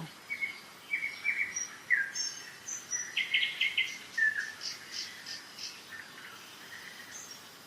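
Spring songbird chorus: several birds giving short chirps, whistled and falling notes, and quick trills, over the steady rush of a mountain river.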